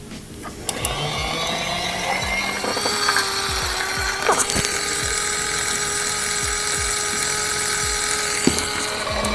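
Small electric motor of a toy mini washing machine starting up and whirring. Its pitch climbs over the first couple of seconds, then holds steady, with a low knock about twice a second as the drum turns a micro beauty-blender sponge. It stops just before the end.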